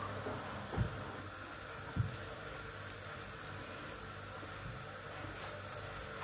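Tortang talong (egg-coated eggplant omelette) frying in oil in a non-stick pan, with a steady, gentle sizzle. Two soft low thumps come about one and two seconds in.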